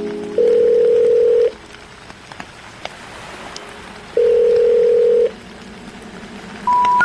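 Telephone call-progress tones: a steady ringback tone sounds twice, about a second each and nearly three seconds apart, over faint hiss. Near the end come three short rising beeps, the special information tone that signals a call cannot be completed.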